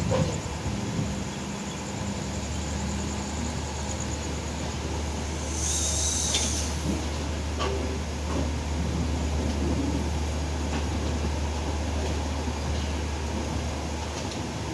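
Passenger train rolling slowly past a station platform, heard from a coach doorway: a steady low rumble of wheels on rail, with a short hiss about six seconds in.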